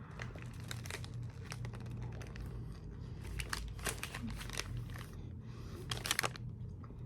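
Food wrapping crinkling and rustling as it is handled and opened, a string of irregular sharp crackles over a low steady hum.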